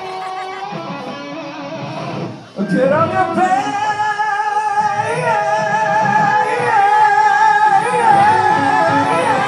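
Live rock band playing, with a lead line of long, bending, wavering notes over the band. The sound drops briefly about two and a half seconds in, then comes back louder with a rising glide into held notes.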